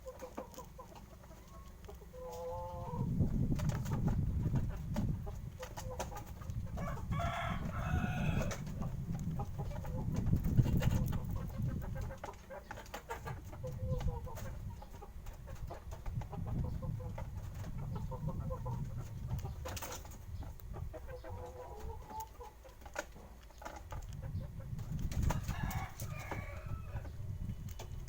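Chickens clucking now and then, with one longer, higher call about seven seconds in, over a low rumble.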